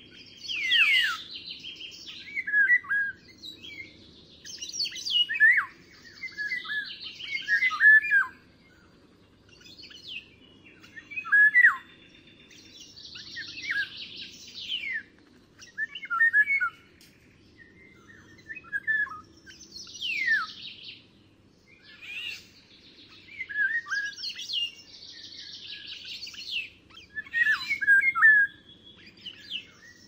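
Songbirds singing: short phrases of chirps and quick downward-sweeping whistles, repeated every few seconds, over a faint low hum.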